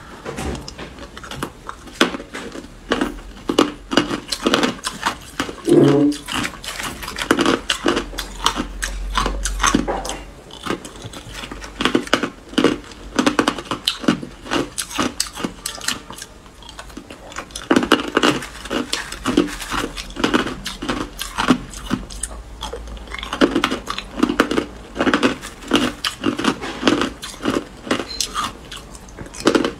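Hard clear ice being bitten and chewed close to the microphone: a dense, irregular run of sharp crunches and cracks, coming in clusters with short pauses between them.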